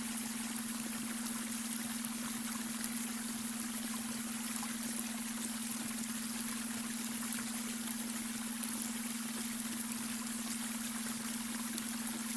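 Babbling brook: water running and trickling steadily over stones, with a steady low tone underneath, the beta brainwave tone blended into the water sound.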